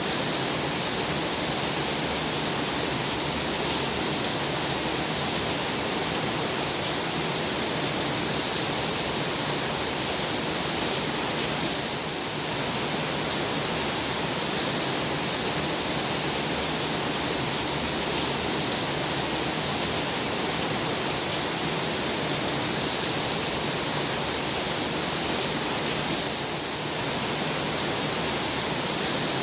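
Heavy rain falling in a steady, even downpour, with two brief slight lulls, one near the middle and one near the end.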